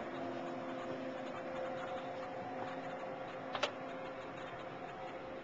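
Steady mechanical hum of a train sleeper carriage, several low tones held over an even rushing noise, with two quick clicks about three and a half seconds in.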